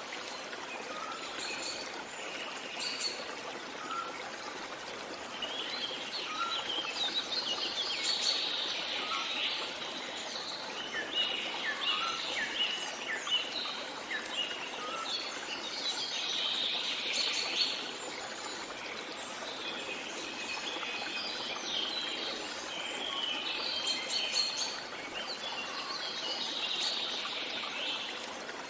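Birds chirping and trilling over a steady rush of flowing water, the birdsong busiest from about six seconds in.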